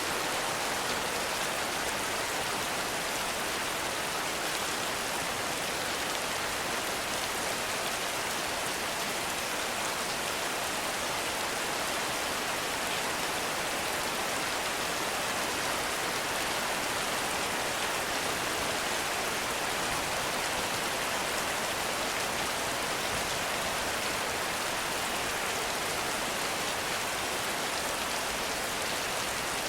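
Heavy rain falling steadily in a forest, an even hiss with no breaks.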